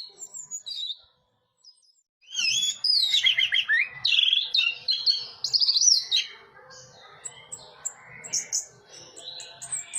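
Orange-headed thrush (anis merah) singing. After a short pause comes about four seconds of loud, fast, varied warbling with rapidly rising and falling notes. Softer, short high chirps follow.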